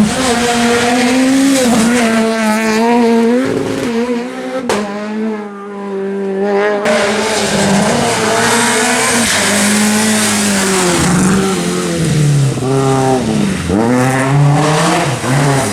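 R2B-class rally car, a small naturally aspirated four-cylinder, revving hard on a stage: the engine note climbs and falls again and again with gear changes and lifts of the throttle, with quick blips near the end.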